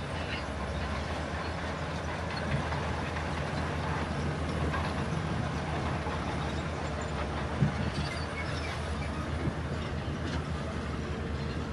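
Heavy diesel earthmoving machinery running steadily under load, with two sharp knocks.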